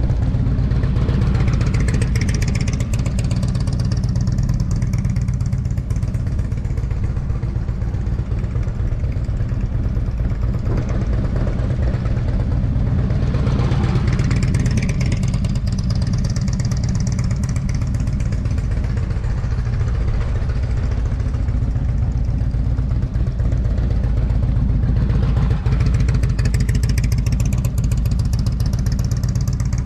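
Motorcycle engine running throughout as the bike rides around a course. The engine sound swells about every twelve seconds as it comes closer: a little after the start, midway, and near the end.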